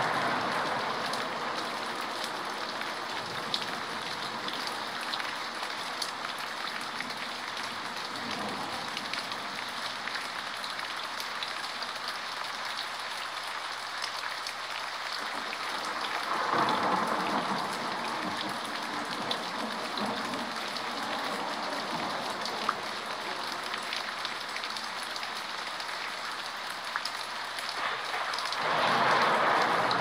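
Steady rain falling on a surface, with scattered individual drops ticking through it. It swells louder twice, once about halfway through and again near the end.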